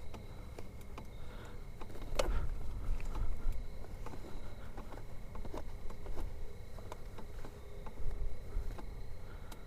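Handling noise: scattered small clicks and rustles over a low rumble, with one sharper click about two seconds in.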